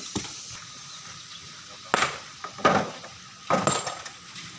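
Hand tools striking stone and gravel: a few sharp, clinking hits about a second apart, a faint one near the start and three louder ones in the second half.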